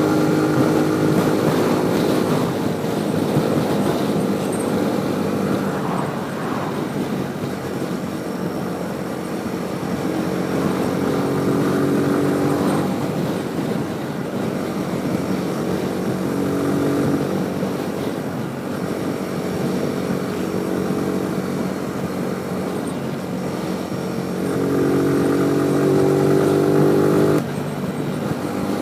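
Motorcycle engine running while riding, its pitch rising and falling with the throttle, with a steady rush of wind and road noise. Near the end it pulls harder for a few seconds, then the engine note drops off suddenly as the throttle is closed or a gear is changed.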